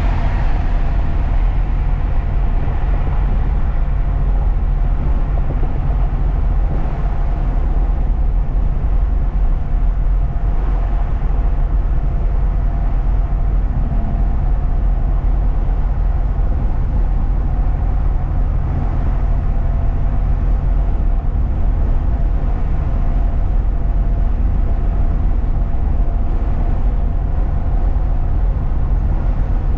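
Truck's engine and road noise heard inside the cab while driving: a steady, heavy low rumble with a faint steady whine above it.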